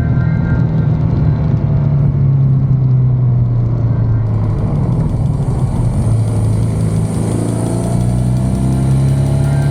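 BMW R nineT's flat-twin boxer engine running under way on the road; its note drops around the middle and climbs again near the end.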